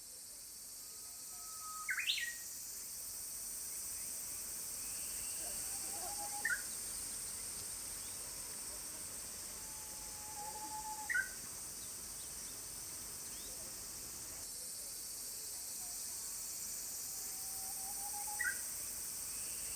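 A bird singing four times over a steady high hiss. Each song is a held whistled note followed by a quick flourish of higher notes.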